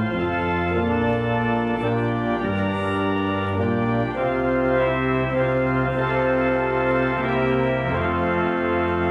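Rebuilt church organ playing slow sustained chords over held bass notes, the chords changing every second or so.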